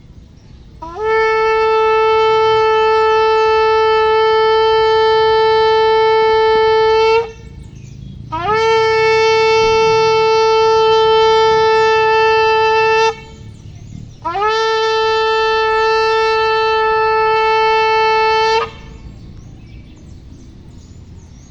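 Shofar blown in three long, steady blasts, the first the longest at about six seconds. Each blast starts with a short upward slide in pitch, then holds one loud note until it stops abruptly.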